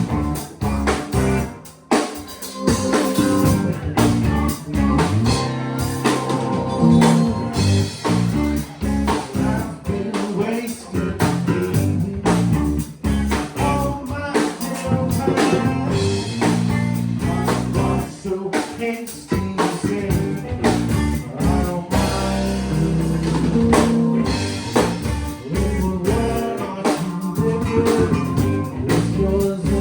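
Band playing a blues-style song: guitar and drums, with singing.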